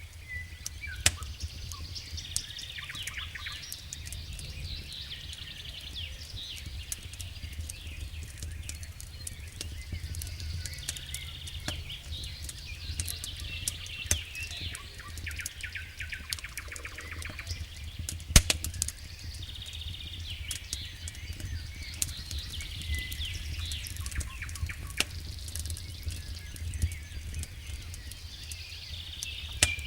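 Wood fire crackling, with frequent sharp pops (the loudest about 18 seconds in) over a steady low rumble. Birds chirp and trill repeatedly through it.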